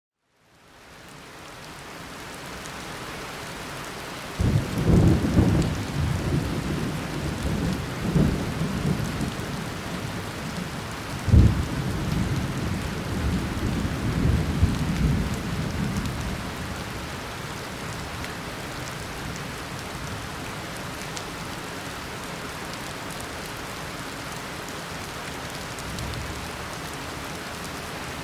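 Steady downpour of tropical rain, fading in over the first couple of seconds. Thunder rumbles from about four seconds in until about sixteen, with its loudest clap near the middle, and a faint distant rumble comes near the end.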